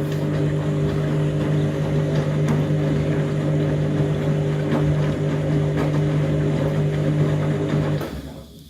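Front-loading washing machine running with a steady mechanical hum as it comes off the final rinse towards the spin; the hum dies away about eight seconds in.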